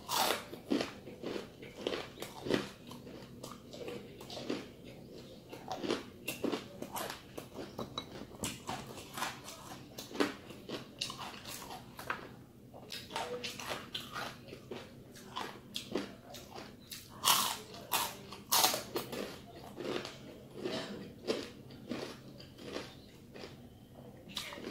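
Crunching and chewing of crispy deep-fried, flour-coated chicken skin: many irregular crisp crunches as it is bitten and chewed, with a few louder crunches about two-thirds of the way through.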